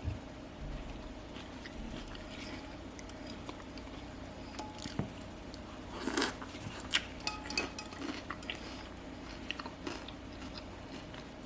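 A person chewing and biting into crunchy food close to the microphone, with scattered short crunches and clicks that come thickest about halfway through.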